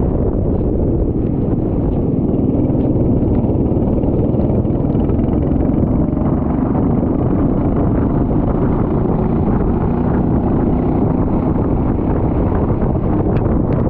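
Go-kart engine running at speed, under a heavy, steady rumble of wind on the microphone.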